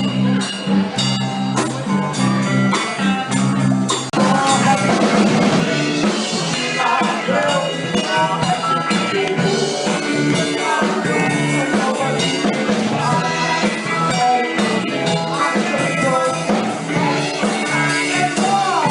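Live soul band playing: drum kit, bass and guitar, with a singing voice, a fuller passage starting about four seconds in.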